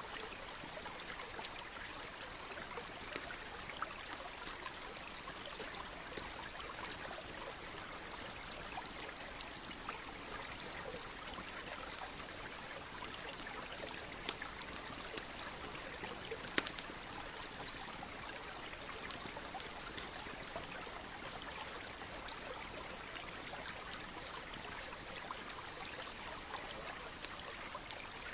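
A stream running steadily, with a campfire crackling over it in sparse, sharp pops, a few every several seconds.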